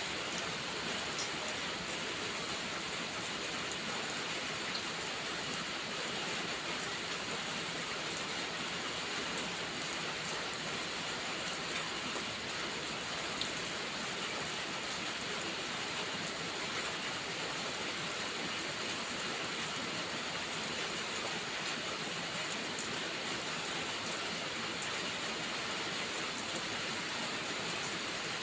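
Steady rain falling: an even, unbroken hiss with a few faint scattered ticks of drops.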